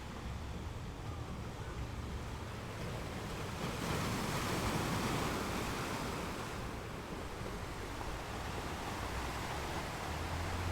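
Sea waves washing on the shore: a steady rush of surf, with one wave swelling up about four seconds in and then easing off, over a low rumble.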